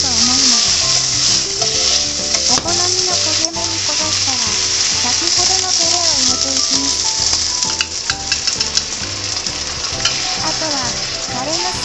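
Eggplant pieces sizzling steadily in hot oil in a non-stick frying pan, turned with chopsticks, with a few sharp clicks against the pan. Partway through, a sesame-miso sauce is poured into the pan, and it is slightly quieter afterwards.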